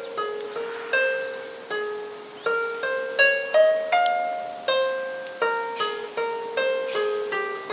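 A 12-string diatonic heart-shaped lyre being plucked: single notes one after another in a slow melody, about one or two a second, each ringing and then fading.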